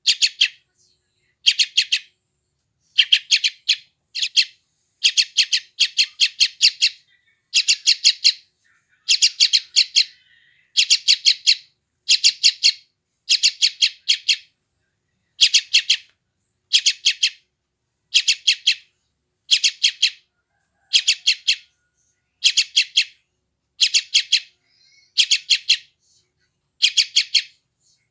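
Young sooty-headed bulbul (trucukan) giving the insistent begging calls of a hungry chick: short bursts of three to five rapid, sharp chirps, repeated about once a second.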